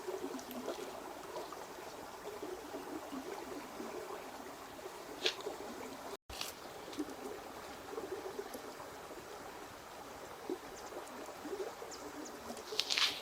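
Running water trickling and burbling steadily, with a few short sharp clicks about five seconds in and again near the end. The sound drops out for an instant at about six seconds.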